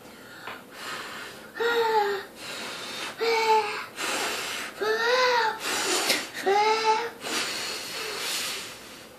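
A young child huffing and letting out four short, high whimpering sounds, each rising then falling in pitch, with breathy puffs between them: a reaction to food that is too hot.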